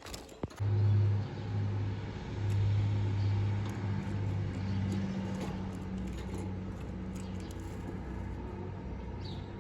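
A low, steady engine-like hum starts about half a second in and carries on, wavering slightly in level.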